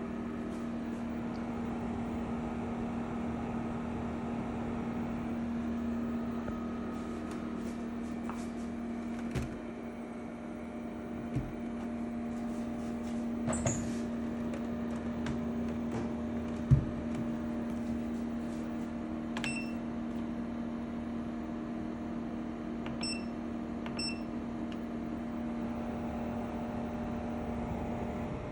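EcoFlow WAVE portable air conditioner running in cooling mode: a steady, loud, unpleasant low hum with a firm drone, likened to a car engine. A few sharp clicks and some brief high beeps come through in the second half.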